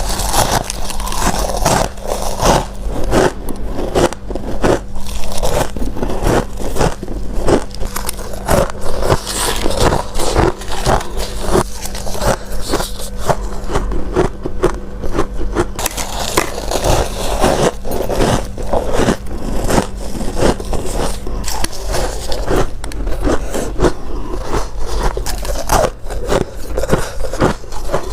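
Close-miked biting and chewing of crunchy freezer frost: repeated crisp crunches and crackles, irregular and close together.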